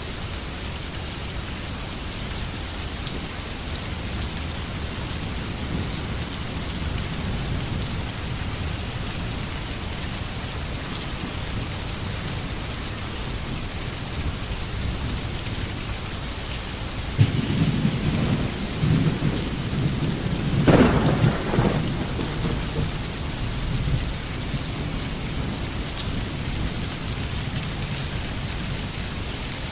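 Steady rain falling in a forest. About seventeen seconds in, a roll of thunder starts suddenly, rumbles with a sharper crack a few seconds later, and fades away after about seven seconds.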